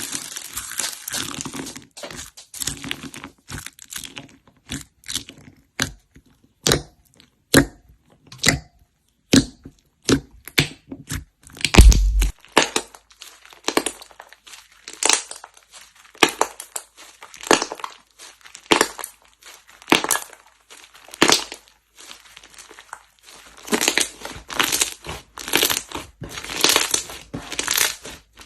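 Slime being pressed and squeezed by hand, giving a run of sharp crackles and pops, about one or two a second, with denser crackling near the start and again near the end.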